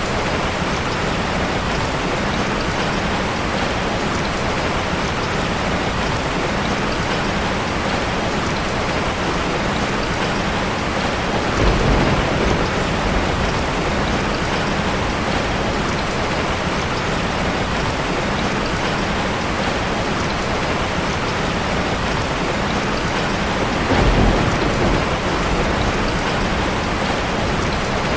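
Heavy rain falling steadily in a dense, even hiss. Two short low rumbles of thunder rise over it, about twelve seconds in and again about twenty-four seconds in.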